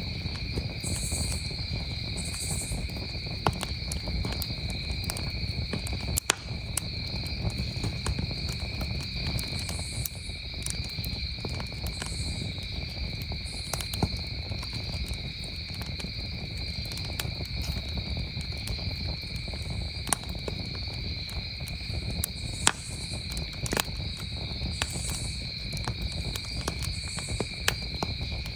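Campfire crackling, with sharp pops scattered irregularly and a low rumble underneath. Behind it, crickets chirp steadily at two high pitches.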